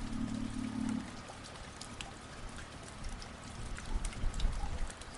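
Rain falling, a steady hiss dotted with many sharp individual drop hits, over a low rumble.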